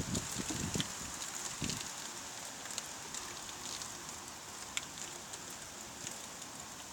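Steady rain falling hard, a continuous hiss with scattered sharp ticks of drops striking hard surfaces close by. A few low thuds come in the first two seconds.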